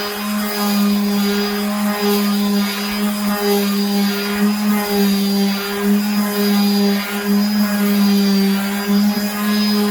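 Electric sander running steadily against the wood of a table with 180-grit sandpaper, a constant motor hum with a faint high whine, its pitch wavering slightly as the pressure changes.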